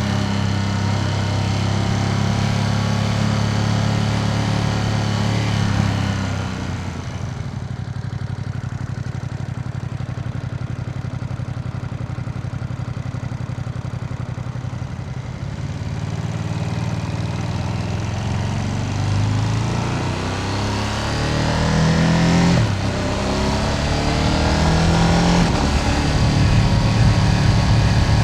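Ducati Panigale V2S's L-twin engine and exhaust on the move. It runs steadily at first, then eases off about six seconds in and goes quieter as the bike rolls off the throttle. The revs climb again in the second half, with a brief dip at a gear change, before it pulls steadily and louder.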